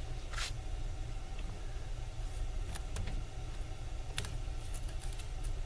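A steady low hum with a few short, light clicks and taps from tools and parts being handled.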